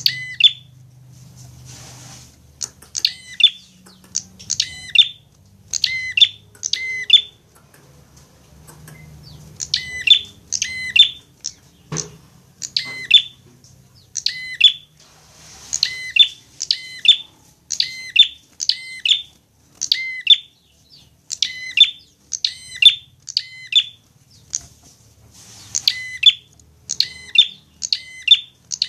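Prinia (prenjak) calling: short, sharp, high chirps repeated about once a second in runs of two to four, with short pauses between runs.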